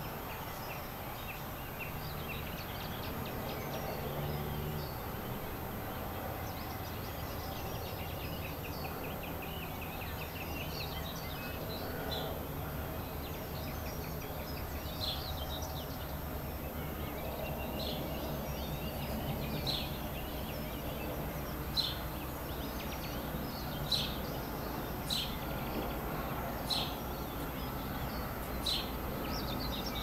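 Wild birds singing and calling over a steady low outdoor background hum. A rapid high trill comes in the first half, then short sharp high calls repeat about once a second toward the end.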